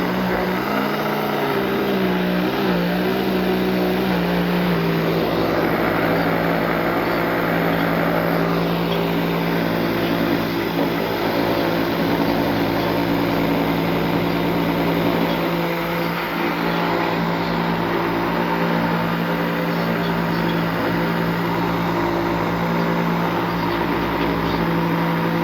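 Electric blender motor running, mixing a liquid pudding batter of eggs, water and powdered milk. Its pitch wavers and drops over the first few seconds, then holds a steady hum.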